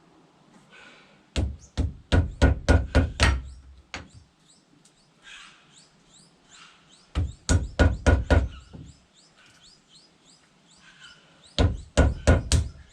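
Three bursts of rapid knocking, several blows a second each, from work on the new wooden handle of a block-splitting maul. Faint bird chirps sound in the gaps between them.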